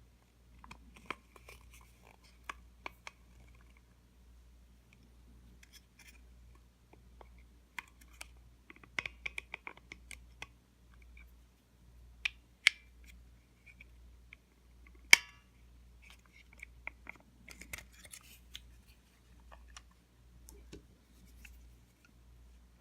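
Small parts of a Eufy RoboVac 11's drive-wheel transmission clicking, tapping and scraping as the axle shaft is lined up and fitted with a small screwdriver. Scattered sharp clicks, with a cluster about nine seconds in and the sharpest about fifteen seconds in.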